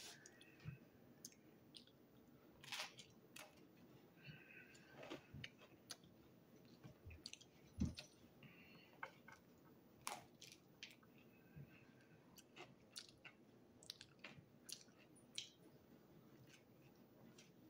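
Faint chewing and mouth sounds of a person eating a slice of pizza, with scattered small clicks. A sharper knock comes about eight seconds in.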